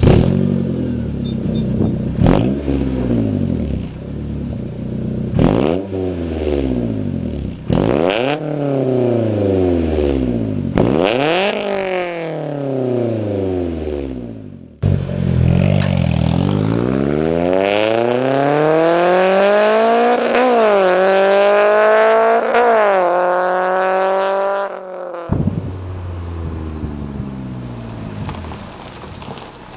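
Honda S2000's 2.2-litre four-cylinder engine, breathing through an Invidia N1 exhaust and a test pipe in place of the catalytic converter. It idles, then is blipped four times with sharp climbs and falls in revs. After a break it pulls hard through the revs, dropping in pitch at two quick gear changes, and settles back to idle near the end.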